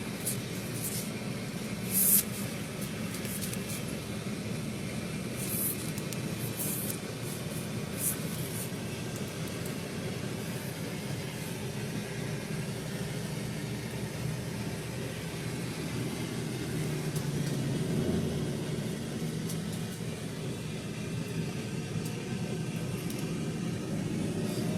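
Steady low rumble of vehicle and road noise, with a few short sharp clicks or knocks, the loudest about two seconds in.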